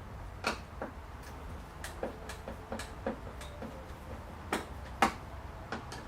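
Irregular light metallic clicks and taps as a screwdriver works the cross-head screws holding a car lamp in place, the loudest about five seconds in.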